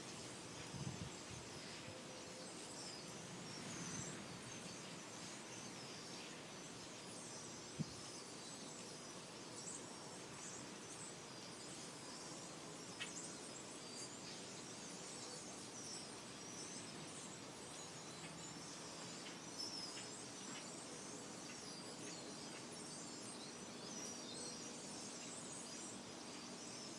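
Many small birds chirping and twittering over a steady background hiss, with a single sharp click about eight seconds in.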